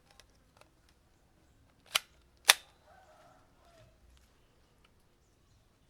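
Toy soft-bullet gun fired twice: two sharp snaps about half a second apart, around two seconds in.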